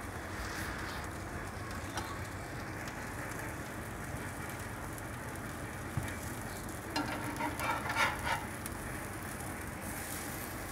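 Oil sizzling steadily under egg-coated bread slices frying on a flat griddle pan over medium-low heat. About six seconds in a metal spatula clicks against the pan, followed by a couple of seconds of scraping as it works under the slices.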